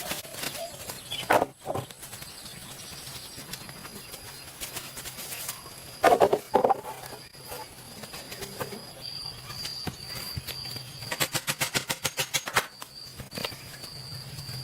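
A steady high insect buzz in the forest, broken by hollow knocks: a pair about a second and a half in, a louder cluster about six seconds in, and a quick run of about ten clicks near the end.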